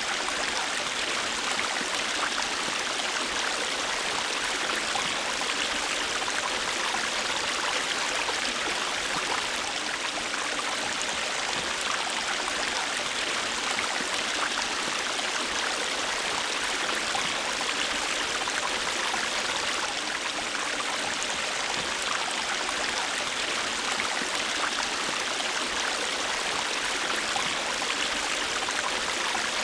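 River water flowing steadily over rocks, an even rushing and babbling that does not change.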